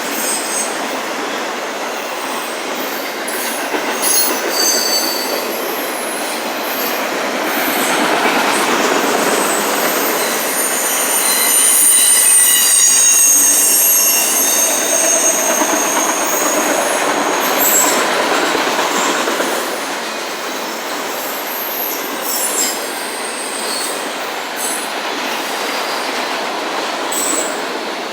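Freight train of autorack cars rolling past on the rails, with high-pitched wheel squeal that is loudest around the middle and a few clicks of wheels over rail joints.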